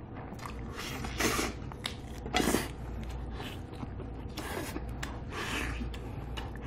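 Close-up biting and chewing of braised beef short-rib meat pulled off the bone: a series of short, noisy bites, the two loudest about one second and two and a half seconds in.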